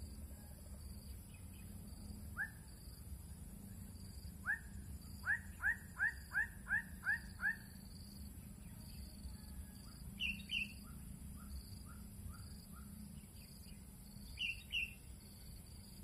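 A bird calling: one short note, then a quick run of about eight sharp, evenly spaced notes, and later two pairs of higher notes with a few faint ones between.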